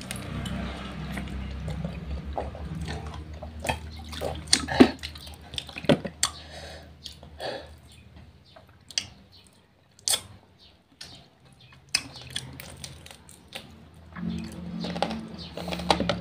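Close-up eating sounds: wet chewing and lip-smacking with scattered sharp clicks, as fried chicken and its soft cartilage are gnawed off the bone.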